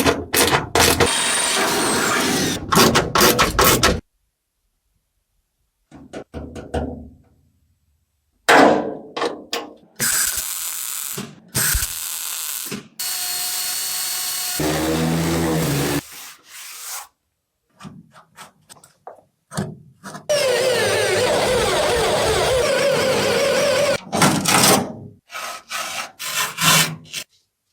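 Car restoration workshop sounds cut together in short clips: power tools running in stretches, one long steady run in the second half, with scraping and rapid knocks, broken by abrupt cuts to silence.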